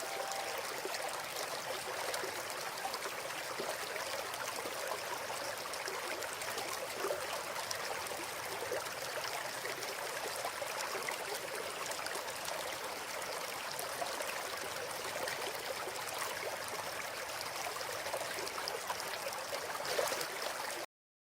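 Steady sound of running water, like a small stream, that cuts off suddenly near the end.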